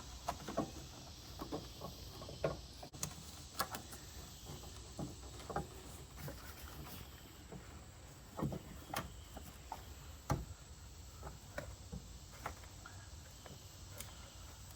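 Scattered light clicks and knocks of hands and plastic parts as an LED headlight bulb is worked into the back of a headlight housing and turned into its socket, over a faint steady hiss.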